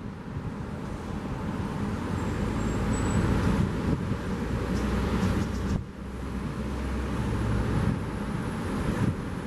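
Cars passing on a seafront road, their engine and tyre noise swelling and fading twice over a steady wash of surf and wind.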